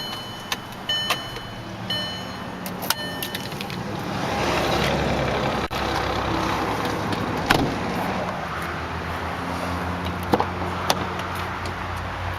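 Car warning chime beeping about once a second, four times, just after the engine is switched off. About four seconds in, a steady noise with a low hum sets in, with a few sharp clicks and knocks.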